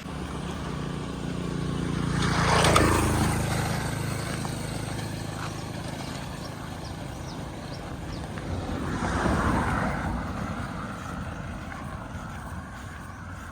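Two motor vehicles passing by one after the other. The first is close and loud, peaking about two and a half seconds in with its engine note dropping in pitch as it goes past. The second is quieter and passes about nine and a half seconds in.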